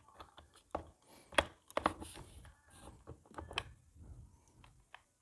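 Hard clicks and knocks of small drill parts being handled and set against each other while an O-ring is fitted to a rotary hammer drill's gearbox assembly, a handful of separate taps, the sharpest about a second and a half in.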